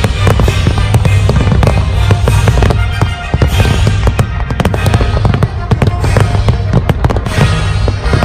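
Aerial fireworks display: a dense, continuous run of bangs and crackles from shells bursting, heard together with music.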